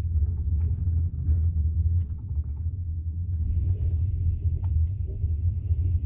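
Steady low rumble of a train in motion, with faint scattered clicks and rattles over it. A faint high whine joins about halfway through.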